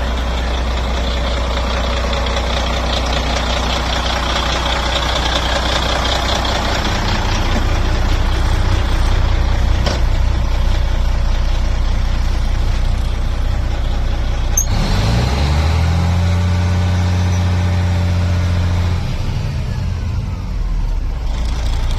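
1988 Freightliner FC60 truck's engine idling steadily. About two-thirds of the way through it is revved up, held at a higher speed for a few seconds, then let back down toward idle.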